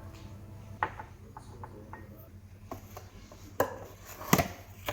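A series of irregular knocks and clinks of household handling, like dishes or utensils being set down and moved, the loudest a little past halfway and near the end.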